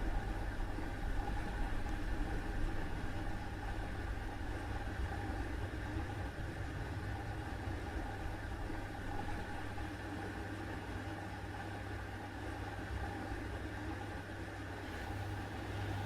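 Washing machine running: a steady mechanical hum from its motor with a fixed tone and a faint hiss, shifting slightly near the end.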